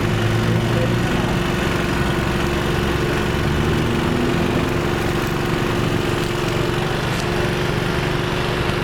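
A motor vehicle engine idling steadily, a constant low rumble with a steady hum.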